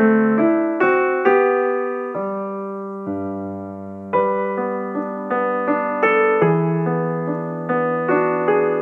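Solo piano background music, a slow passage of struck notes and chords that ring and fade, with a low bass note entering about three seconds in.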